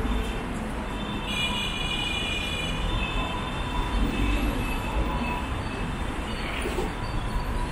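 Rumble of a passing train with a high, steady wheel squeal for a couple of seconds about a second in, over general street traffic noise.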